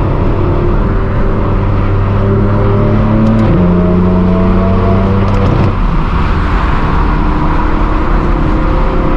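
Straight-piped BMW M4 F82's twin-turbo inline-six exhaust droning loudly while cruising. Its steady tone steps up in pitch about three and a half seconds in, then fades into road noise around six seconds.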